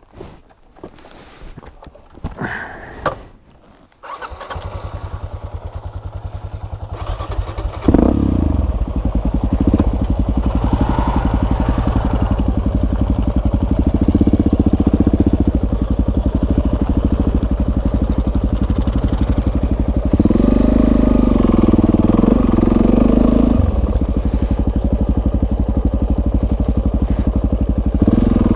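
A few knocks and handling sounds, then about four seconds in a single-cylinder dual-sport motorcycle engine starts and idles. About eight seconds in it gets louder as the bike moves off and keeps running, its pitch rising and falling a few times.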